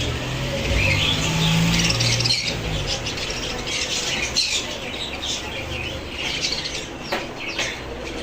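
Birds in a pigeon loft calling: many short, high squawks and chirps throughout, over a low drawn-out sound during the first three seconds.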